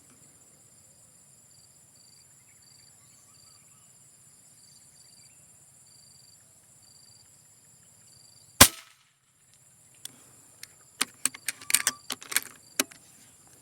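A single loud gunshot cracks out a little past the middle, followed a second or so later by a quick flurry of sharp clicks and rattles. Insects chirr faintly and steadily underneath.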